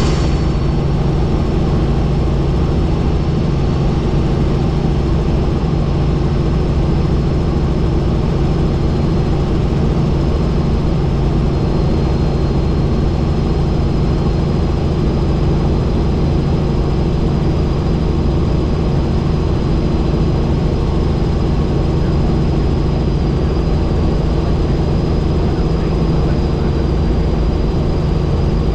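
Helicopter in flight: steady, loud engine and rotor noise with a thin, high, steady whine over it.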